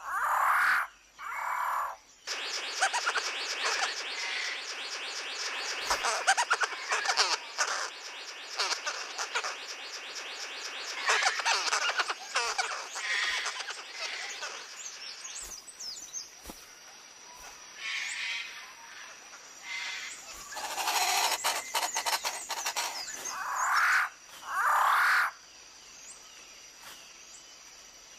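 New Guinea rainforest animal chorus. Loud calls repeat over the first two seconds and again from about 21 to 25 seconds in. A dense run of rapid clicking, trilling calls fills the middle, over a steady high whine.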